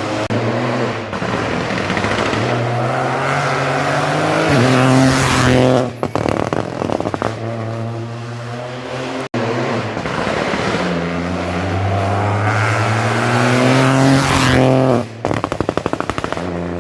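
Rally car engine at full throttle, pitch climbing, then lifting off with a rapid string of exhaust pops and crackles on the overrun; this happens twice, about 6 s in and again near 15 s.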